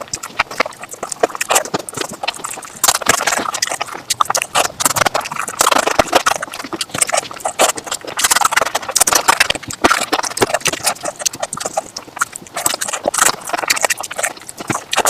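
Close-miked chewing and lip-smacking of a person eating rice and fish curry: a dense, uneven run of wet mouth clicks.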